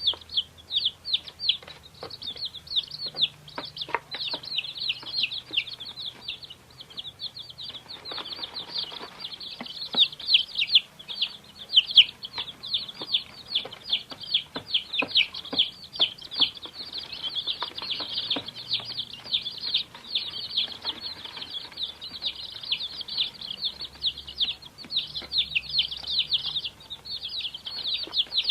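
A brood of baby chicks peeping nonstop, many high, short, downward-sliding cheeps overlapping one another, with faint scattered light clicks beneath.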